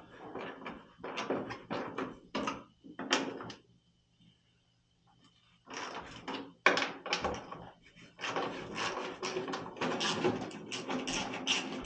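Irregular scraping and knocking on an oil furnace's sheet metal during soot cleaning, in two runs with a short pause about four seconds in; no steady vacuum motor is heard.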